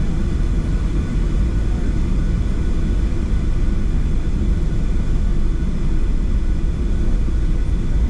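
Cabin noise inside a Boeing 737-700 on the ground before takeoff: a steady low rumble with faint, steady engine tones from its CFM56-7B turbofans running at low power.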